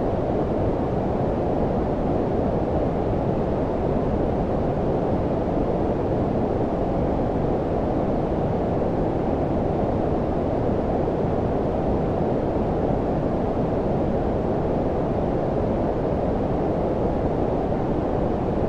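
Steady, unchanging low-pitched noise with its energy below about 1 kHz and little treble: filtered white noise of the brown-noise kind, made for sleep masking.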